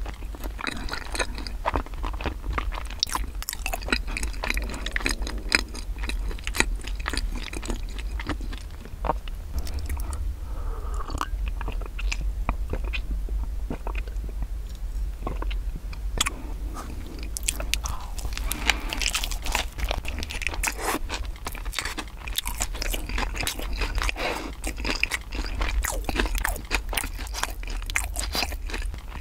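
Close-miked chewing of bakery breads: crisp crunching of crusts and soft, wet mouth sounds, with a drink of milk partway through and crunchier bites near the end.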